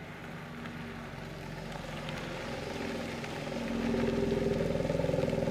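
BMW X3M Competition's twin-turbo inline-six running on its stock exhaust, a low, quiet engine note that grows steadily louder.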